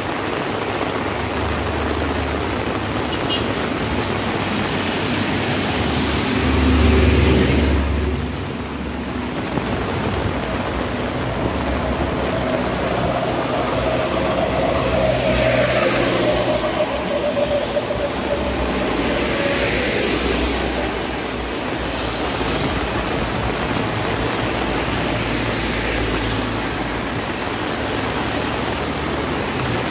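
Heavy rain falling steadily, with motor vehicles passing on a wet road: one louder, rumbling pass about seven seconds in and another with an engine hum in the middle.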